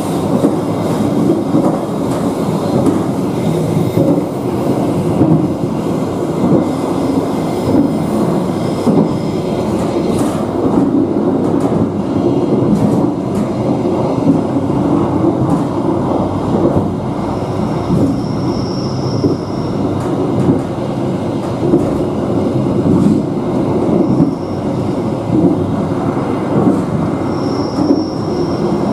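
Indonesian executive-class passenger coach running at speed: a steady rumble and clatter of its wheels on the rails. A faint high wheel squeal comes in twice, about two-thirds of the way through and again near the end, as the train takes curves.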